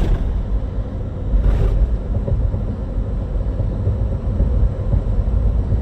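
Steady low engine and road rumble inside a moving tour truck, with a couple of brief hisses, one at the start and one about a second and a half in.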